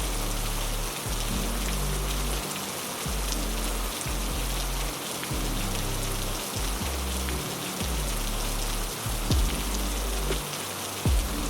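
Steady heavy rain hiss, with slow, low sustained music notes underneath that change every second or so. A few sharp low thumps stand out, the loudest near the end.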